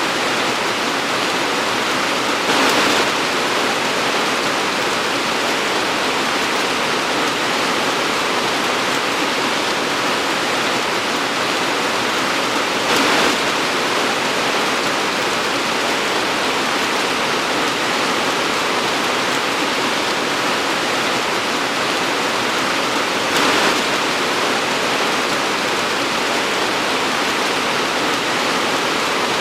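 Torrential rain pouring down in a dense, steady hiss, swelling briefly louder three times about ten seconds apart.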